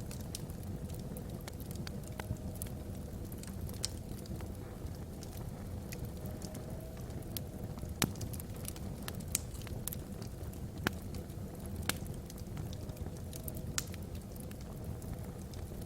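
Logs burning in a fireplace: a steady low rumble of the fire with frequent sharp crackles and pops, a louder pop about halfway through.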